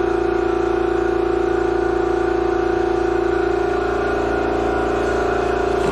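A power sander running steadily with a high, even whine, sanding down the cracked plastic bumper cover.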